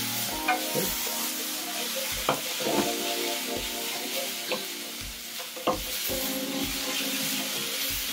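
Sliced onions and peppers sizzling in oil in a stainless steel frying pan while a wooden spoon stirs and scrapes them, with a few sharp knocks of the spoon against the pan.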